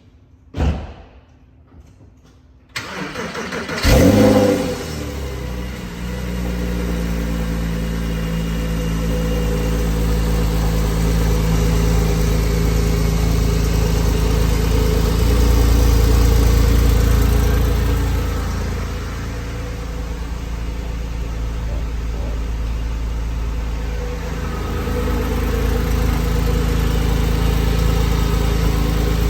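The 3.8-litre flat-six of a 2006 Porsche 997 Carrera S cold-starting after a brief thump: the starter cranks briefly, the engine catches with a rev flare about four seconds in, then settles into a steady fast cold idle that dips about two-thirds of the way through and comes back up near the end.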